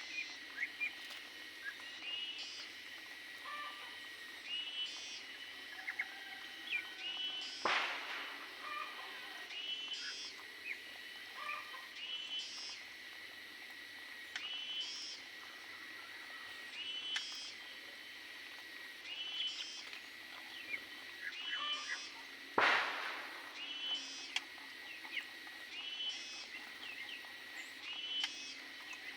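Caged small birds chirping, short bright calls repeated about once a second over a faint steady whistle-like tone. A sharp click or knock comes twice, about a third of the way in and again about three-quarters through.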